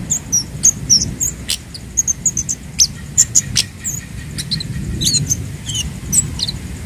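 Scarlet-headed flowerpecker (kemade) giving a quick, irregular run of short, high chirps, some dropping slightly in pitch, over a steady low background rumble.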